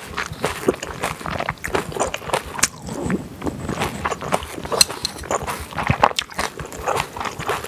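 Close-miked chewing of a wet mouthful of food: rapid, irregular smacks and squelchy clicks.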